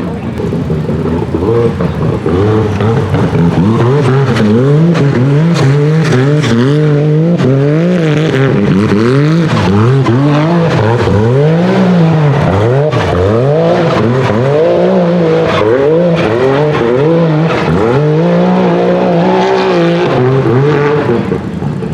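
Turbocharged UTV buggy engine revving hard, its pitch climbing and dropping over and over as the throttle is worked on and off.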